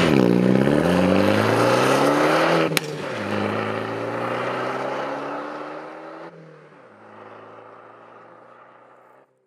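Alfa Romeo MiTo engine and exhaust pulling hard under acceleration, the revs climbing. A sharp crack and a drop in revs come about three seconds in as it shifts up. The engine pulls again, shifts once more about six and a half seconds in, and fades away.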